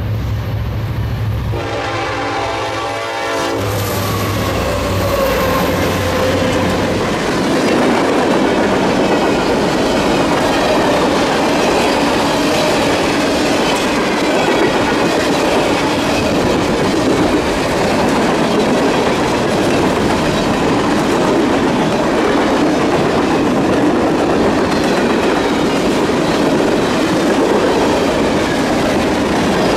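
Diesel freight train: a short horn blast about two seconds in, over a low engine rumble. Then the freight cars roll past with steady wheel-on-rail clatter.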